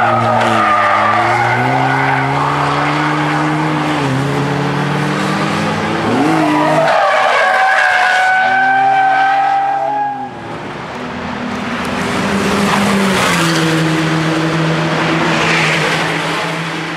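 KTM X-Bow engine under full throttle on a circuit: the revs climb through the gears with a shift about four seconds in. The car lifts off sharply about ten seconds in, then pulls again at steadier revs.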